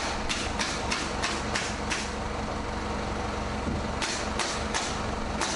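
Runs of sharp knocks, about three a second, over a steady mechanical hum.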